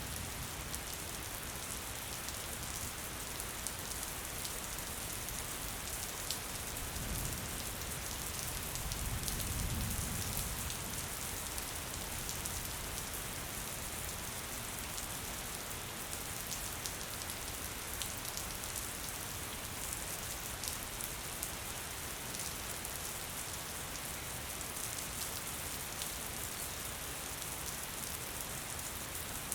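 Gentle rain falling steadily: an even hiss with scattered drops ticking. A low rumble swells briefly about a third of the way in.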